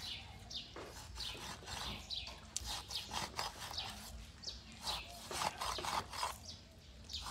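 Birds chirping, many short falling chirps in quick succession, with a few soft cuts of a cleaver blade scoring fish skin on a wooden chopping board.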